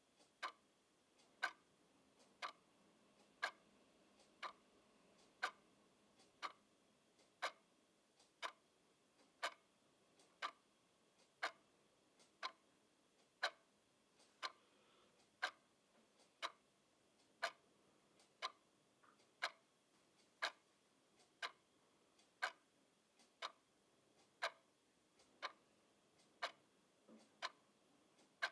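Clock ticking steadily, about one sharp tick a second, some ticks alternately louder and softer.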